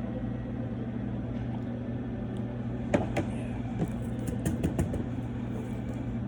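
A steady low hum of restaurant background, with a few sharp clicks and knocks about halfway through from utensils against a bowl as pho is eaten.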